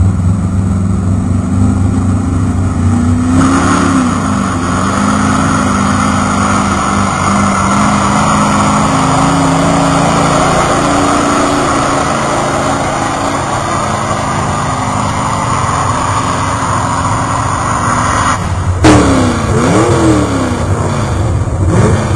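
Competition pulling truck's engine at full throttle, a long loud run with a steady roar for about fifteen seconds that cuts off abruptly, followed by the engine revving up and down a few times.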